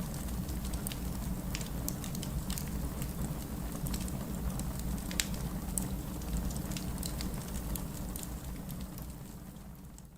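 Fireplace crackling with scattered sharp pops over a steady hiss of rain and a low rumble. The whole mix fades down near the end.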